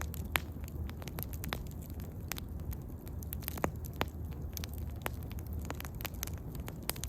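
Wood bonfire burning, with sharp irregular crackles and pops over a steady low rumble.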